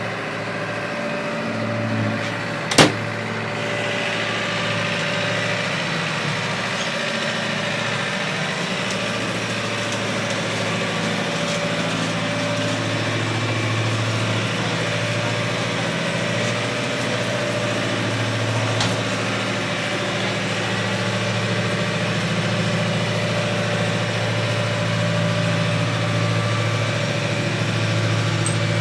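A sailboat's engine running steadily with a constant low hum, and a single sharp knock about three seconds in.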